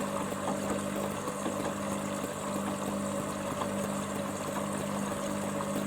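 Hoover Dynamicnext washing machine taking in water during a top-up fill: a steady electrical hum over rushing water.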